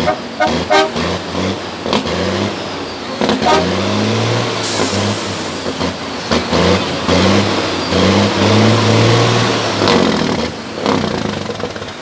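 Heavy trucks' engines running, with pitched sounds coming and going over a dense, noisy background.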